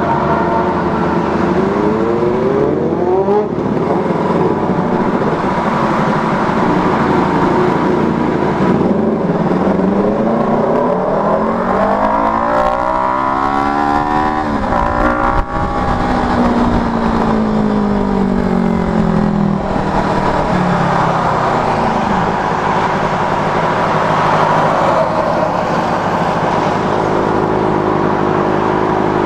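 Benelli TNT 600i's inline-four engine through a Two Brothers exhaust, running at expressway speed over a steady rush of wind and road noise. Its pitch rises under acceleration twice, breaks off sharply about halfway through, then falls away over several seconds.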